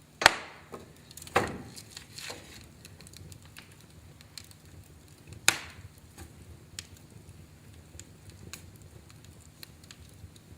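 Wood fire crackling in a fireplace: a few loud sharp pops in the first two and a half seconds and another about five and a half seconds in, with frequent small ticks over a low steady rumble.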